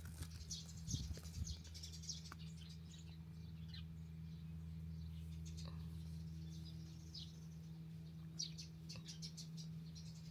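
Small birds chirping faintly in short, scattered high chirps, over a low steady hum.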